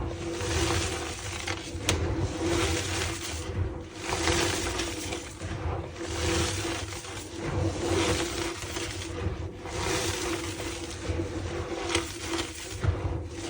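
Reformed gym chalk blocks being crushed, a dense crunching and crumbling that comes in repeated squeezes of a few seconds each, with short pauses between them.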